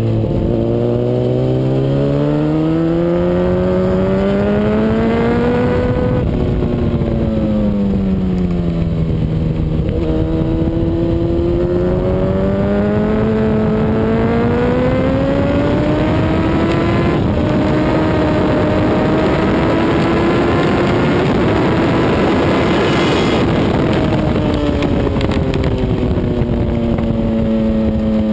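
Honda CBR RR sportbike's inline-four engine heard onboard at speed, its pitch climbing under acceleration and falling away under braking several times, with abrupt breaks at gear changes, over steady wind rush.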